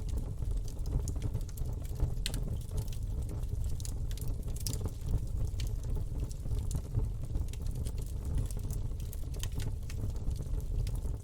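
Campfire burning: a steady low rumble of flames with frequent irregular crackles and pops from the burning wood.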